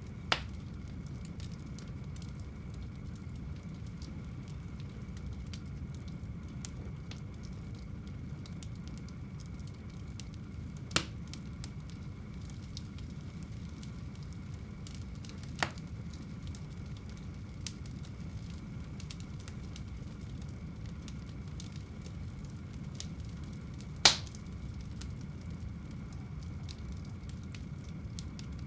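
Wood fire burning in a home fireplace: a steady low rush of flame with light crackling throughout, and four sharp pops from the burning wood, the loudest near the end.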